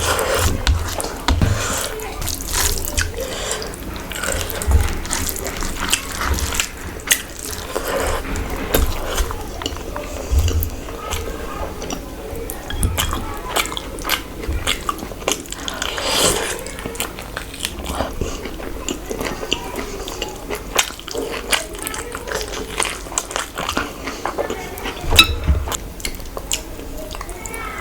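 Close-miked eating sounds: wet chewing, lip smacks and slurps, a rapid irregular run of small sharp clicks throughout.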